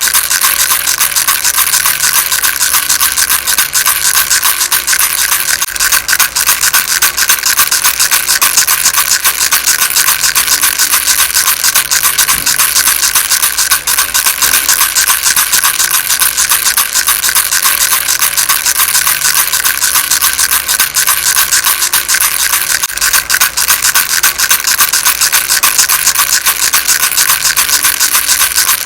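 A baby rattle shaken without pause, a dense, steady rattling with no break in rhythm.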